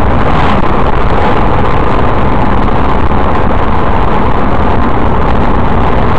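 Steady, loud vehicle driving noise: engine and road rumble without any distinct impact or change.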